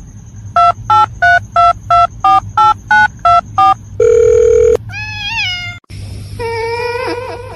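Telephone keypad tones: about eleven quick two-tone beeps as a number is dialed, then a steady tone for under a second. Near the end come a short rising-and-falling pitched call and a longer wavering pitched sound.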